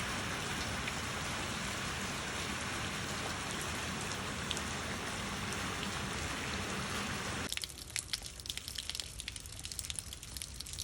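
Rain falling steadily as an even hiss of drops. About seven and a half seconds in it cuts off suddenly to a quieter patter of separate drops and drips.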